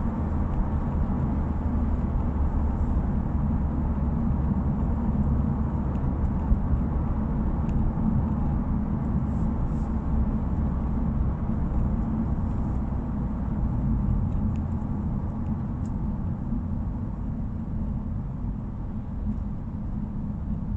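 Subaru WRX driving, with a steady low drone of engine, exhaust and road noise that eases off slightly near the end. There is no rattle from the muffler, whose abnormal noise has been fixed.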